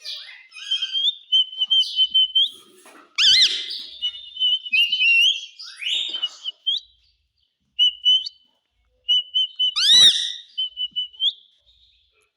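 Pet parrot whistling and chattering: a string of high warbling whistles, with two louder swooping calls about three seconds in and again near ten seconds.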